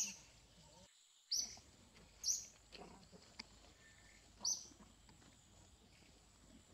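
A bird chirping: four short high chirps spaced one to two seconds apart over faint outdoor background.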